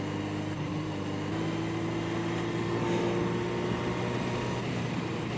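Yamaha 750 Seca's air-cooled inline-four engine running steadily under way in second gear. Its note steps up slightly about a second in, then rises gently.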